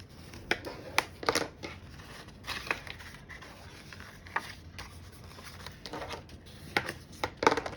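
Scored cardstock being folded and creased with a bone folder: irregular sharp paper crackles and scrapes, with softer rubbing between them.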